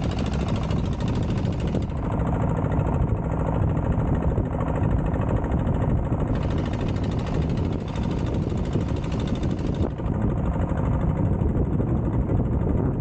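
A boat's engine running steadily, with a rough, rhythmic chugging, heard from on board, along with a rushing hiss that comes and goes.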